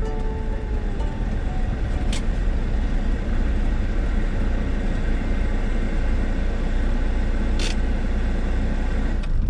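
Van driving along the road: steady low engine and road rumble. Background music fades out in the first second, and there are two brief high hisses about two seconds in and near the end.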